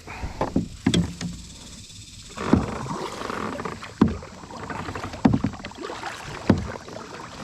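Kayak paddle strokes in the water, about one every second and a half, each a short knock followed by a rush of water noise.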